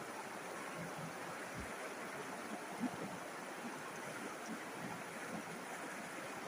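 River water flowing steadily, an even rushing sound, with one brief louder splash about three seconds in.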